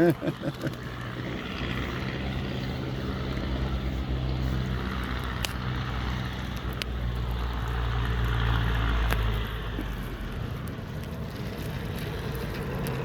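Vehicle engine and road noise: a low, steady hum that grows louder about eight seconds in and eases off near ten seconds.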